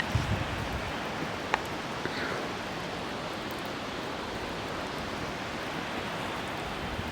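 Steady rushing noise with a few faint clicks and knocks.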